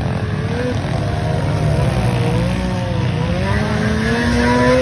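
Several pit bike engines revving, their pitch rising and falling as the throttles open and close, with one engine climbing steadily through its revs near the end.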